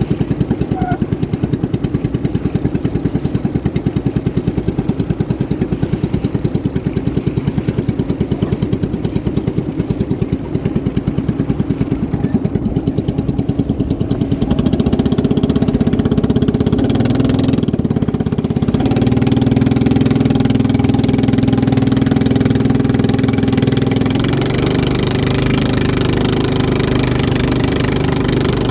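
Racing boat engine running hard with a fast, even pulsing; about halfway through it gets louder and settles into a steadier, higher drone.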